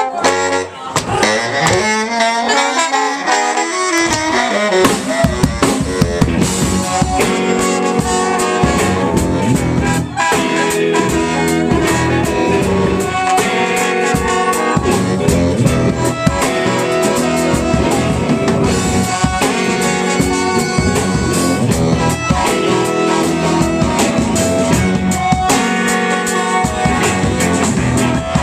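Soul-rock band playing an instrumental passage live, with no vocals. A lead line bends in pitch over the first few seconds, then the full band comes in with a horn section holding chords over a steady drum kit beat.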